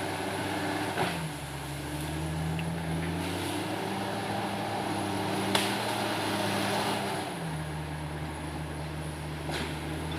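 Komatsu D68ESS crawler bulldozer's diesel engine running steadily under work, its pitch shifting slightly about a second in and again about seven and a half seconds in. A few short knocks stand out, about a second in, midway and near the end.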